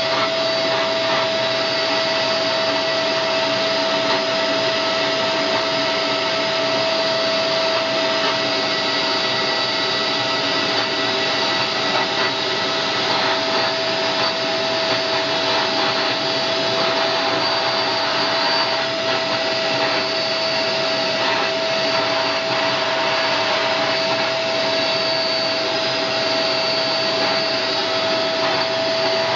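Vacuum cleaner motor running steadily, a rushing airflow with a steady whine over it.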